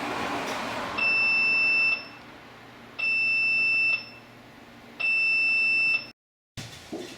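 Electronic beeper sounding three long, steady high beeps, each about a second long and two seconds apart, over a steady low hum. The sound cuts out suddenly about six seconds in, and a short knock follows near the end.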